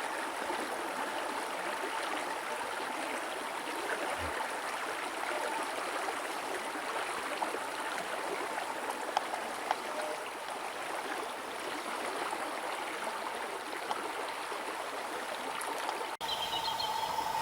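Flowing river or stream water, a steady rushing. About a second before the end it cuts abruptly to a different steady sound.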